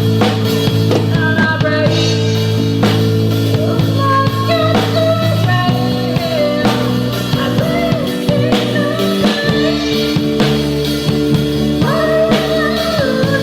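Rock band playing a song: drum kit hits over sustained guitar and bass chords, with a wavering melody line above.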